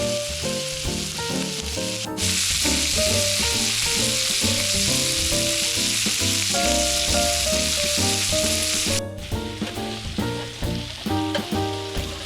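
Steak sizzling on a hot grill plate, louder from about two seconds in and cutting off suddenly about nine seconds in. Background music plays underneath throughout.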